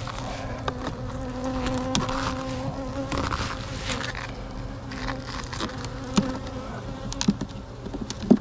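Honeybees buzzing as a steady hum from the open hive full of bees, with a few sharp clicks and knocks, the loudest near the end.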